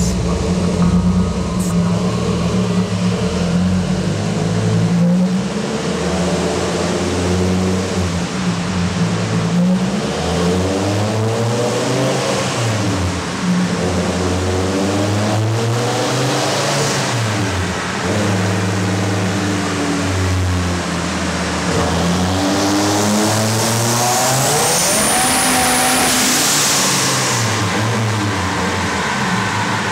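1998 Dodge Viper GTS's twin-turbo V10 running on a chassis dyno, revved up and down again and again, then pulled through a longer climb in pitch about three-quarters in with a high whistle rising along with it.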